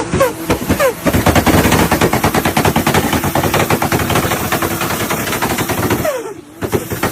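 Turbo flutter from a Toyota Supra MK4's 2JZ engine: a fast, loud chatter with repeated falling chirps as the throttle closes and the turbo's compressor surges. It eases off briefly a little after six seconds, then more falling chirps follow.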